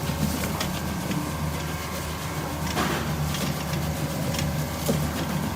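Ripe-mango cutting machine running: a steady low motor hum with irregular clicks and knocks from the mechanism, the loudest about three seconds in.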